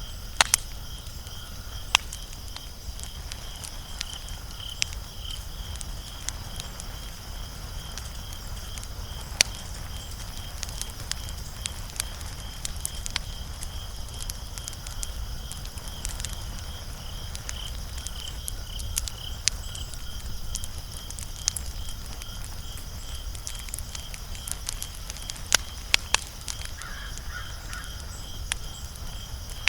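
Wood fire crackling: irregular sharp snaps and pops, a handful of them much louder, over a steady low rumble. A faint, continuous high pulsing trill runs underneath.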